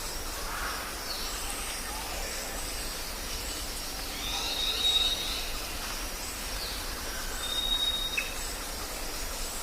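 Jungle ambience: a steady hiss of background noise with scattered high bird whistles, including two held whistled notes, one near the middle and one later.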